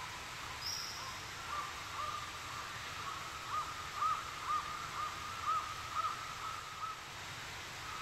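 A bird calling in a series of short, arched notes, about two a second, loudest around the middle, over a steady high-pitched background drone.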